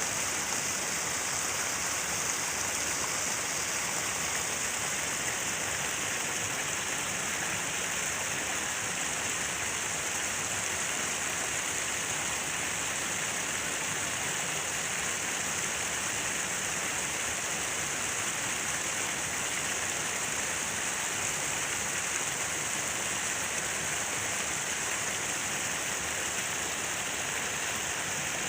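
Falling water splashing in a steady, even rush with a bright hiss and no change in level.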